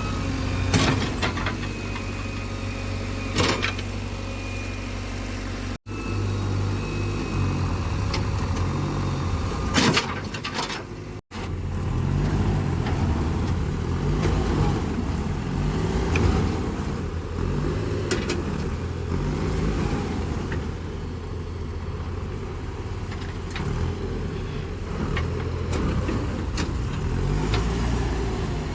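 Heavy diesel machinery running with a steady low drone and occasional knocks; later the engine revs up and down over and over, in repeated surges about every two seconds, as it works to free a tractor stuck in mud.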